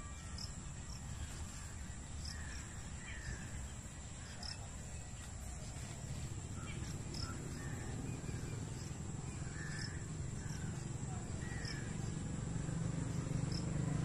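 Birds calling outdoors in short calls at irregular intervals, over a steady high insect drone; a low rumble grows louder near the end.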